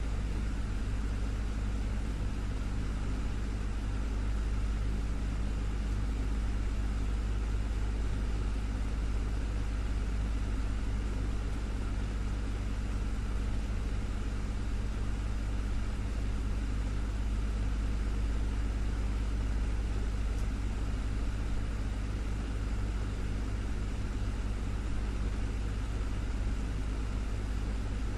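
Desktop fan running steadily: a constant low hum from its motor with an even rush of air, unchanging throughout.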